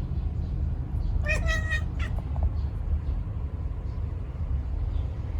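A domestic cat gives one short meow about a second in, followed by a few faint clicks, over a steady low rumble.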